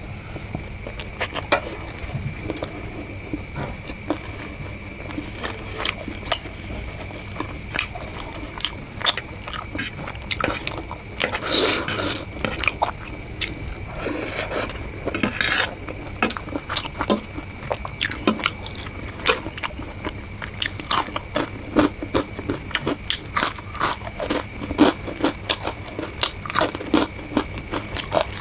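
Close-miked chewing and wet mouth clicks as a woman eats chicken lollipop and egg chow mein, with a few louder, denser bursts of chewing along the way, over a steady hiss.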